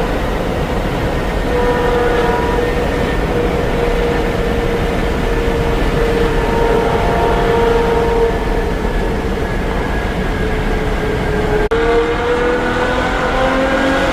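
Ferrari exhaust holding a steady high-pitched note, cut off abruptly near the end and then climbing in pitch as the engine revs up.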